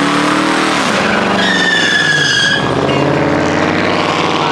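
Car engine revving hard with a high tire squeal for about a second, starting about a second and a half in, as when a car does a burnout or donut; the engine pitch climbs again near the end.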